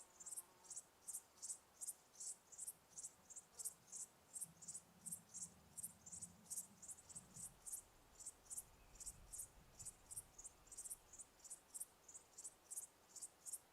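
Cricket chirping steadily, short high-pitched chirps repeating about three times a second.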